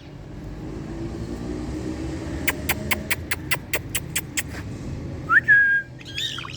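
Indian ringneck parrot giving a short whistle that rises and then holds one note, the loudest sound here. It is preceded by a quick run of about ten sharp clicks, roughly five a second.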